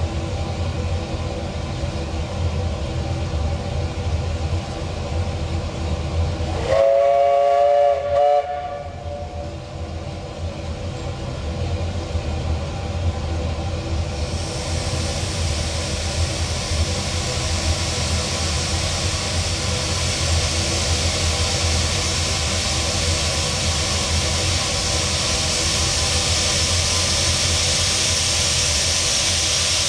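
Steam locomotive's whistle blown once for about a second and a half, with a brief second toot right after, over a steady low rumble. About halfway through, steam hissing starts and carries on.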